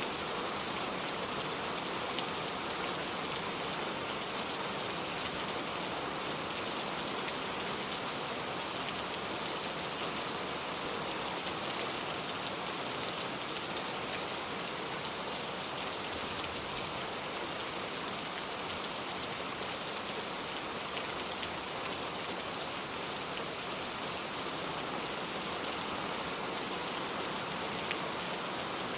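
Heavy rain pouring steadily, a dense even hiss of rain with scattered individual drops ticking on surfaces.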